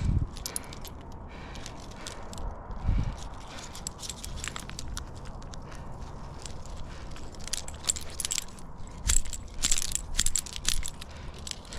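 Metal climbing gear on a harness rack, carabiners and protection, clinking and jangling in irregular clusters, busiest near the end, over low thumps and a steady low rumble.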